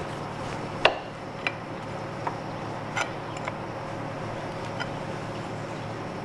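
A few sharp, light metal clicks and taps, the loudest about a second in, as a steel pry bar is set and worked against the rusted primary clutch parts of a motorcycle, over a steady low hum.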